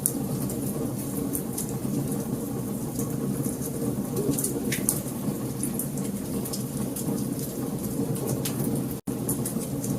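Wood fire burning in a fireplace: a steady low rumble of flame with frequent sharp crackles and pops of burning wood. The sound cuts out for an instant about nine seconds in.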